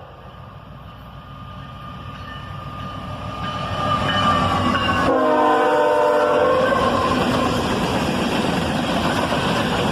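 Freight train led by a pair of GE ES44AC locomotives approaching and passing: the horn sounds a chord that drops suddenly in pitch as the lead unit goes by, then the locomotives and cars run past steadily and loudly.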